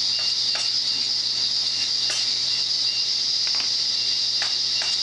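A steady high-pitched hiss with light clicks and taps scattered irregularly through it.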